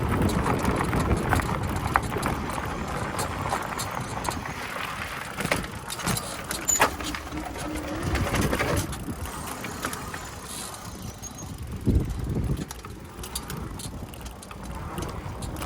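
E-bike being ridden over a rough trail: continuous tyre and rattle noise, with a few sharp knocks from bumps.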